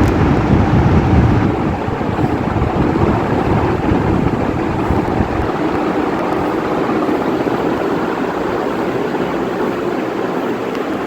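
Quiet Pak ceiling fan running, a steady rush of moving air with its draught buffeting the microphone; the low rumble eases about five seconds in.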